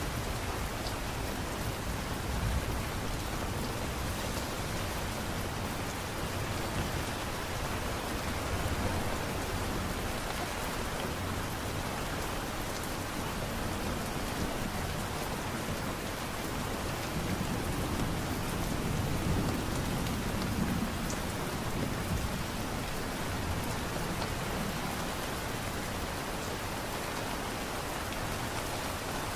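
Steady light rain falling, an even hiss of drops, with a low rumble swelling and fading about two-thirds of the way through.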